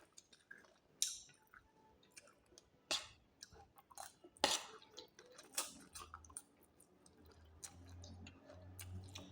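Someone chewing and biting roast chicken, with a few sharp clicks at uneven intervals. A low hum builds in the second half.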